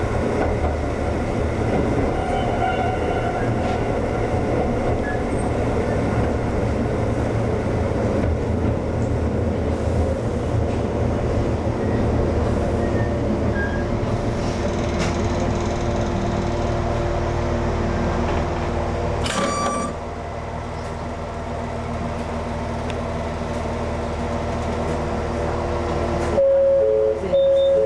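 Former Tokyu 7000-series electric train running on the line, a steady rumble of wheels and motors. About twenty seconds in there is a click and the rumble drops to a quieter run with a few steady tones. Near the end a loud steady two-note tone sounds.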